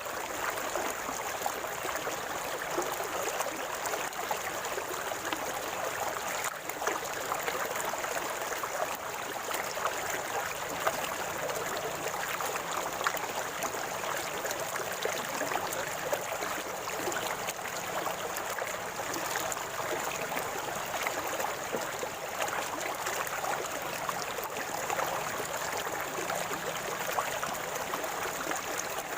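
River water gurgling and babbling steadily, with a faint, even high-pitched hiss running above it.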